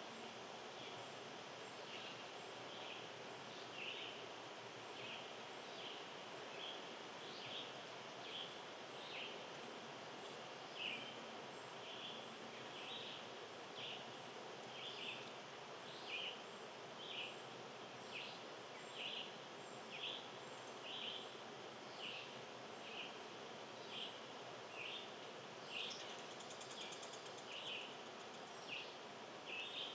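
A small animal repeating one short, high chip call about once a second, over a steady, faint outdoor hiss.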